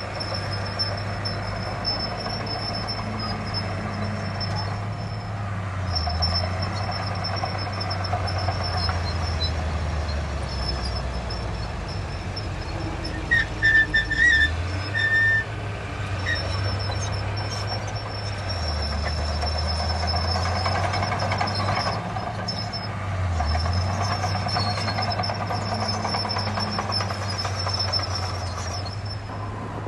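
Heavy diesel earthmoving machinery running. The engine note sags and recovers several times as it takes load. About halfway through come a few short, shrill, high-pitched notes.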